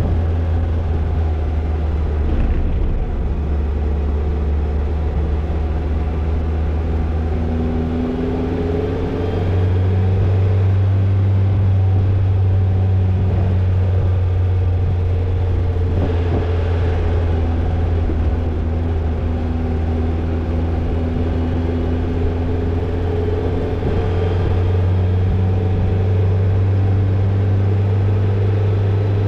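Toyota Tercel 4WD wagon's engine running as it drives off-road, a steady low drone that rises in pitch and level about nine seconds in and again near the end as the throttle changes.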